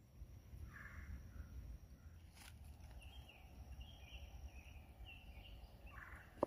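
Faint woodland ambience with a few short, distant bird chirps through the middle, over a low rumble. A thin steady high tone runs until about two-thirds through, and there is a single click about two and a half seconds in.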